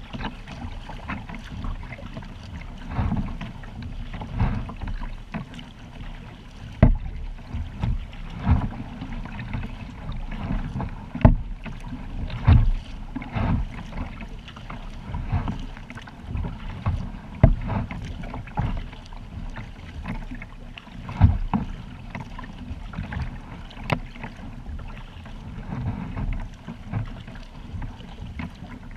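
Water splashing and lapping around a kayak, with irregular sharp splashes every second or two over a steady low rumble of wind on the microphone.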